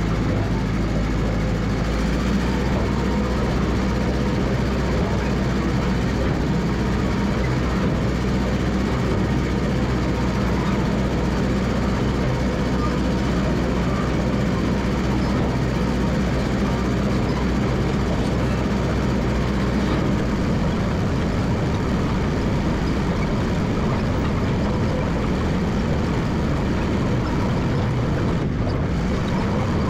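Massey Ferguson MF 300 crawler dozer's engine running steadily under load while it scrapes and grades a trail, its note changing about twenty seconds in.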